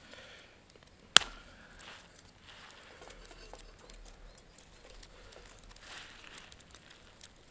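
A single sharp click about a second in, then faint, intermittent rustling.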